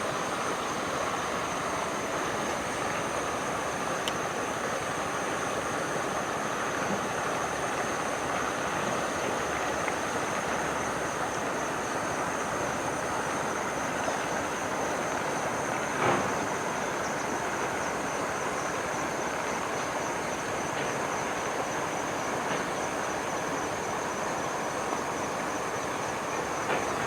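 A steady rushing background noise with a continuous high, wavering insect trill over it, and one sharp click about sixteen seconds in.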